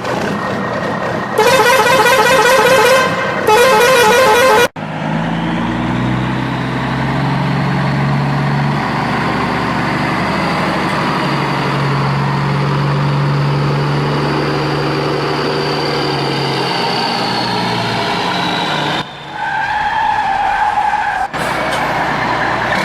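Vehicle horn blasts and a running vehicle engine, as sound effects. Two loud wavering horn blasts come early, then a long stretch of engine sound whose pitch shifts, then a steady horn tone near the end.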